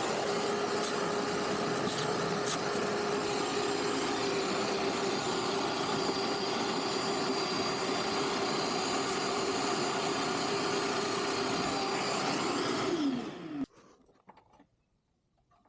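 A motor running steadily for about 13 seconds, a steady whine over a broad rushing noise, spinning up at the start and winding down near the end.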